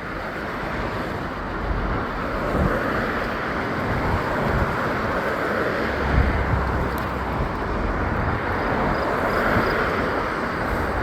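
Steady rushing road noise while riding a Bird electric scooter along a street, with a louder low rumble about six seconds in.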